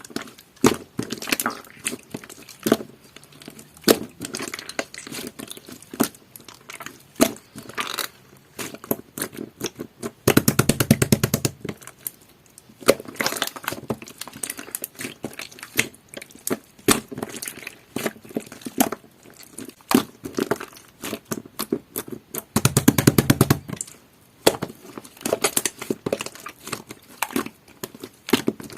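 Jelly-textured slime being squished and pressed by hand, giving a stream of irregular small pops and clicks. Twice, about ten seconds in and again near twenty-three seconds, a rapid run of pops lasts a second or so.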